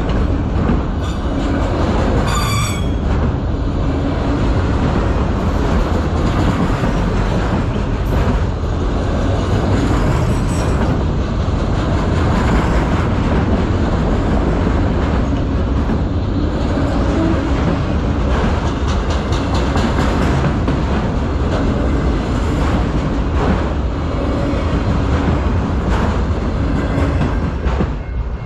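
Freight train autorack cars rolling past close by: a loud steady rumble with wheels clacking over rail joints, and a brief high wheel squeal about two seconds in. The noise drops off a little near the end as the tail of the train clears.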